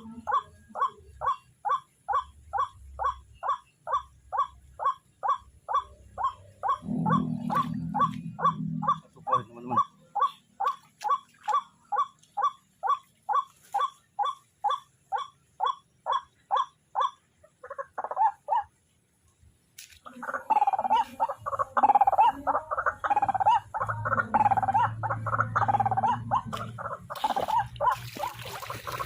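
White-breasted waterhen calls: a long, even run of harsh repeated notes about three a second. After a break of about two seconds past the middle, a denser, overlapping bout of calling follows.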